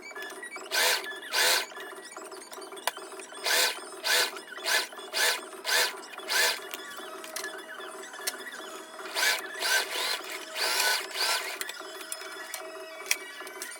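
Heavy-duty sewing machine stitching in short runs: about fourteen quick bursts of under half a second each, in two clusters.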